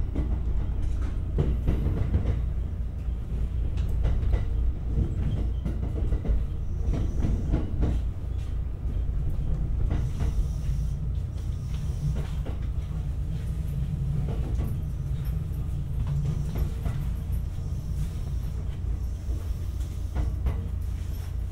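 Inside a JR West 227 series electric train running on the line: a steady low rumble of wheels on rails, with the clicks and clacks of rail joints now and then. No motor sound rises above the ride noise.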